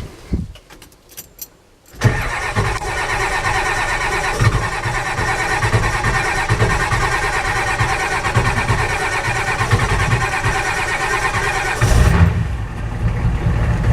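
1988 Ford F250's 7.3 L IDI V8 diesel cold-starting at about 30 degrees without a warmed block heater. After a few light clicks, the starter cranks it for about ten seconds in an even pulsing rhythm. The engine catches near the end and runs.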